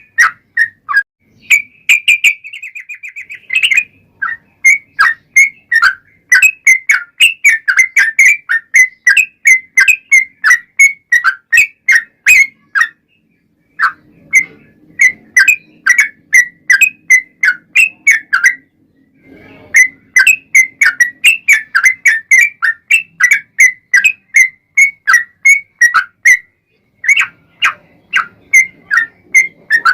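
Yellow-vented bulbul (trucukan) singing a long, fast run of short whistled notes, about four a second, with a brief trill a couple of seconds in and two short pauses along the way.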